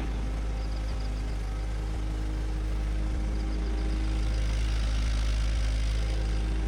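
Bulldozer's diesel engine running steadily, a low even drone, with faint rapid high ticking over it in places.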